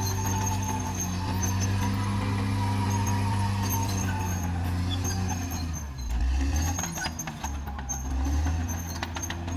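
Caterpillar D6R XL bulldozer's diesel engine running steadily. Its note drops lower about six seconds in, and a few sharp metallic clanks come through.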